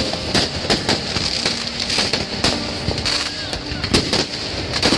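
Fireworks and firecrackers going off all around in rapid, irregular succession, several sharp bangs a second, over a steady high hiss.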